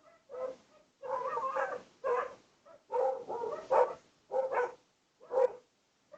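A dog barking in a run of about seven barks over six seconds, some short and some drawn out.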